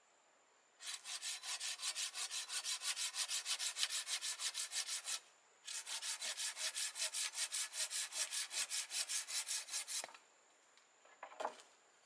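Hand saw cutting wood with quick back-and-forth strokes, about five a second, in two runs of roughly four seconds with a short pause between. A short knock follows near the end.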